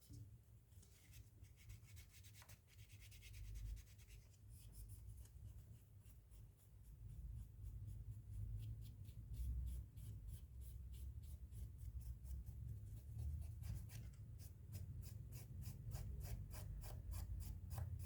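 Rubbing and scrubbing at old adhesive on a phone's back cover, cleaning it with IPA. It is soft scratchy friction, and in the last few seconds it becomes a quick even run of about five strokes a second.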